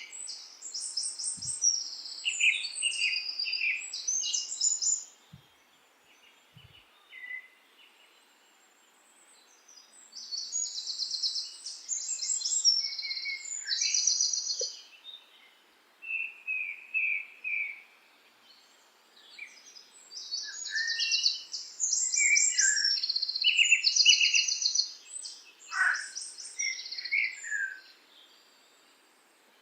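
Songbirds singing: bursts of high, rapid chirping trills in three bouts of several seconds each, with quiet gaps between them.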